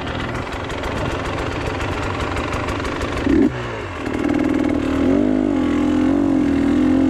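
Motorcycle engine running under load with a rough rumble, a short loud burst a little past three seconds in, then the engine note rising and wavering from about four seconds in as the throttle is worked.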